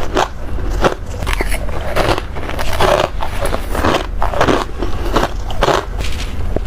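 Bites and chewing of crunchy freezer frost, a run of crisp crunches about one or two a second.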